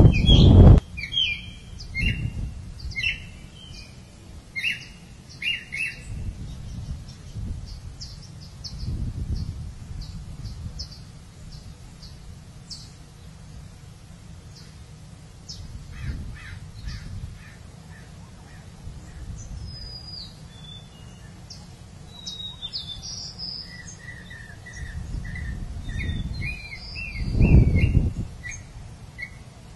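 Birds chirping in repeated short series, over a steady low rumble that swells louder near the start and again near the end.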